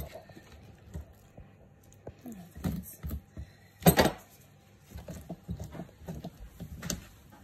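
Wet squelching and scattered small knocks of hands pulling the guts out of a raw mutton bird (sooty shearwater), with one louder thump about four seconds in.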